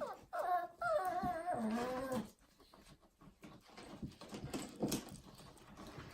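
Cavapoo dog whining in a wavering, high pitch for about two seconds, then softer scattered taps and scuffles.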